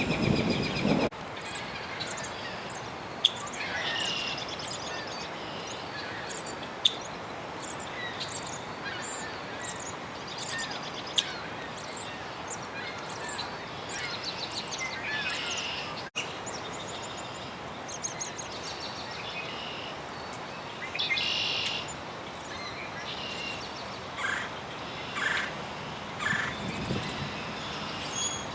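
Wild birds chirping and calling in short, high, scattered notes over a steady outdoor background hiss, with a few sharp clicks.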